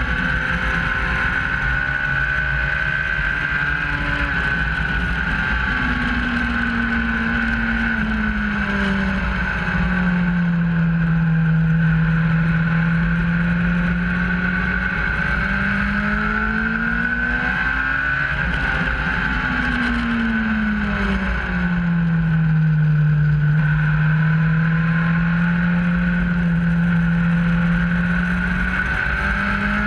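A motorcycle engine running hard around a race circuit, heard from a camera mounted on the bike. Its note sinks over a few seconds, holds low, then climbs again. This happens twice.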